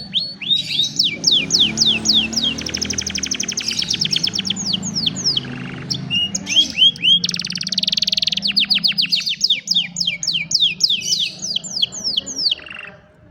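Domestic canary singing: rapid rolling trills of repeated notes broken by series of falling whistled notes, the song stopping shortly before the end.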